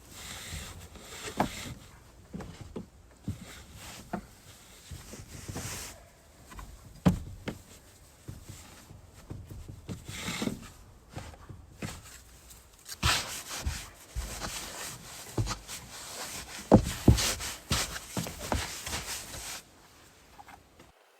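Irregular rubbing and scraping with scattered knocks and thumps, as hands handle gear and fabric; it stops about a second and a half before the end.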